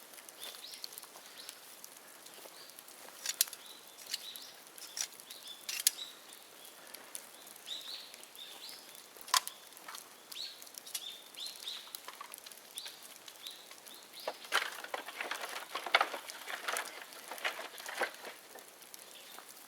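Bonfire of dead bamboo crackling with irregular sharp pops, coming thicker from about three-quarters of the way through. Short bird chirps sound alongside in the first half.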